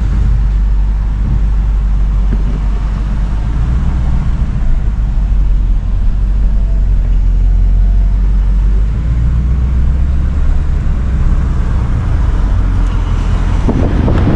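Steady low engine and road drone inside the cabin of a moving Ford Mustang, with a broader rush of noise building near the end.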